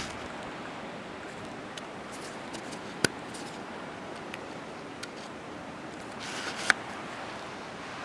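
Steady hiss of wind and falling snow during a snow shower, with scattered small ticks and two sharper clicks, one about three seconds in and one near the end.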